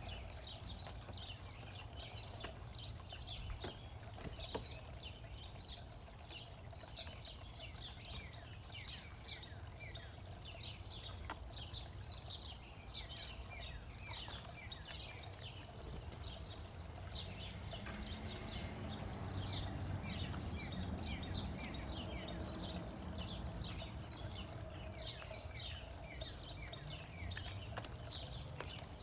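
Backyard songbirds chirping without pause, many short high downward notes several a second, over a low background rumble that grows louder midway.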